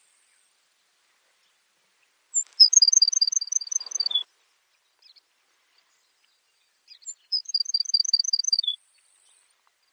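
Baird's sparrow singing two songs a few seconds apart. Each song is a high opening note, then a quick even run of about seven paired notes, and ends on a lower note.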